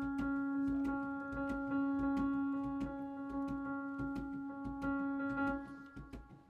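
Live band music: a single keyboard note held steadily over a regular percussion pattern of sharp ticks and low pulses, which dies away shortly before the end.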